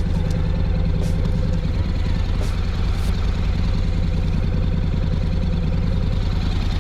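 Honda NC750X's parallel-twin engine running steadily, an even low pulsing note with no revving.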